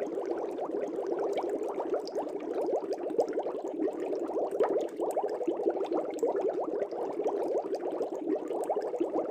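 Air bubbles streaming up through fish tank water: a dense, steady bubbling made of many quick little rising blips and pops.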